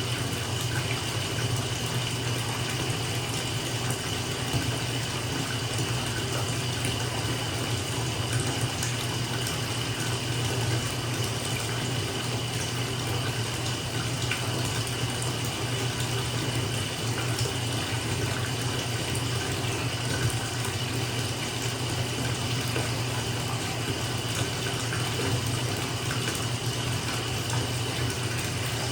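Bathtub filling from a running tap: a steady, unbroken rush of water pouring into the tub, with a low steady hum beneath it.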